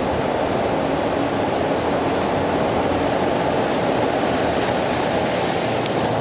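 Steady rushing noise of a bicycle ride on wet roads in the rain: wind buffeting the microphone over the hiss of the tyres.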